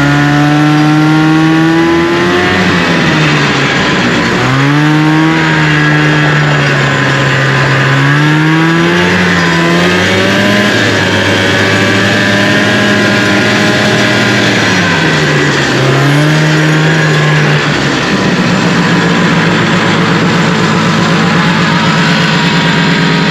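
Fan-cooled 340 two-stroke engine of a 1974 Arctic Cat Lynx snowmobile running after a cold start. It is revved up and down several times, then settles into a steady run for the last few seconds.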